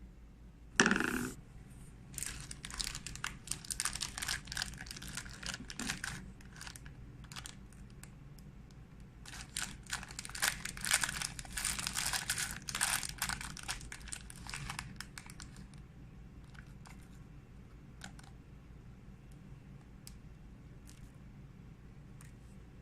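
Crinkling and crackling, like handled wrapping or packaging, in two long bursts of dense clicks, after a short sharp sound about a second in.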